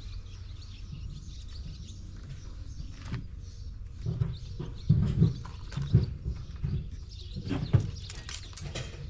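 A string of dull thumps and clunks starting about halfway through, over a steady low rumble and faint bird chirps.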